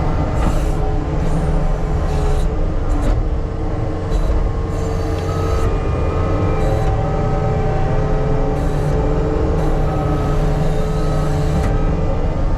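Diesel earthmoving machine running steadily under load, a constant low engine rumble with a steady hydraulic whine, broken every second or so by short bursts of hiss.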